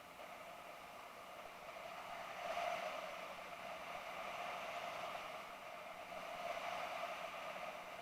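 Muffled, steady drone of a BMW F650GS motorcycle on the move: engine and wind noise blended into an even hiss, swelling a little about two and a half seconds in.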